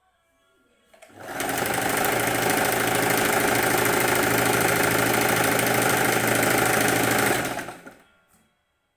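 Sewing machine running steadily for about six seconds, starting about a second in and stopping near the end.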